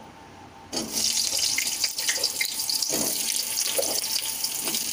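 Cut potato pieces dropped into hot oil in a kadai: a loud frying sizzle starts suddenly about a second in and keeps going, with small crackles and pops.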